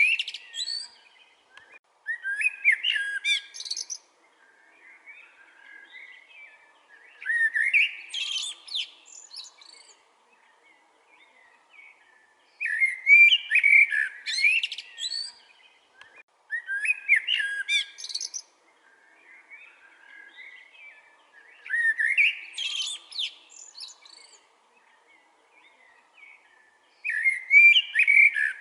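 A common blackbird singing: about seven separate song phrases, each about two seconds long, with pauses of a few seconds between them. Each phrase is a warble with a higher twittering part.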